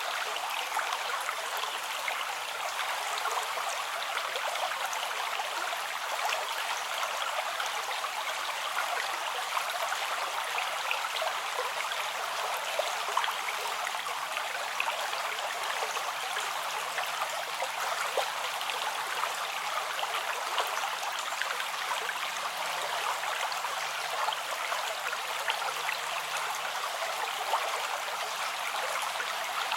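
Flowing river water: a steady, even rush of running water with fine splashing detail.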